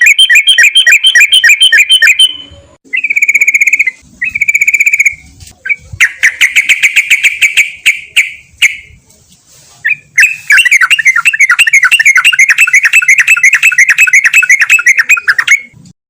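Sooty-headed bulbul (trucukan) singing rapid, rattling trilled phrases, loud and close, broken by short pauses; the longest trill runs about five seconds near the end.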